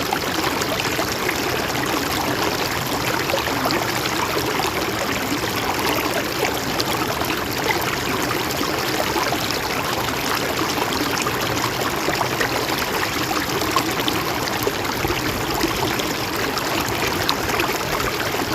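Mountain stream running over rocks, a steady rush with small splashes and trickles throughout.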